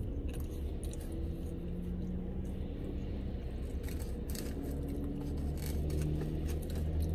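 Chewing of crispy fries and the scrape and rustle of a foam takeout container being handled, in short scattered clicks, over a steady low vehicle hum that grows a little louder near the end.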